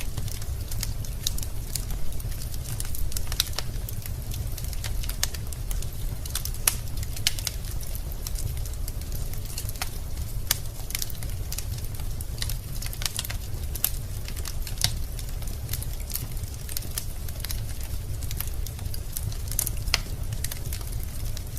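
Wood fire burning in a fireplace: logs crackling and popping in many sharp, irregular snaps over a steady low rumble of the flames.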